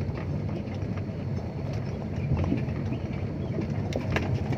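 Dump truck's diesel engine running steadily, heard from the cab, with scattered knocks and rattles as the truck rolls over a rough dirt track.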